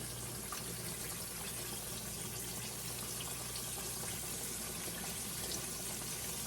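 Lightly breaded chicken breast deep-frying in a pot of oil at about 350°F, a steady sizzle with faint crackles.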